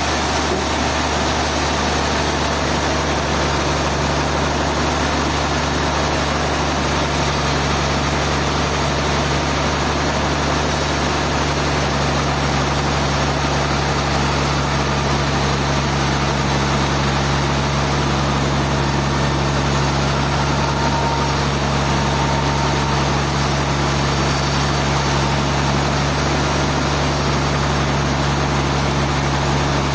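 Sawmill machinery running steadily: an engine-like drone with constant low tones that does not change pace or pitch.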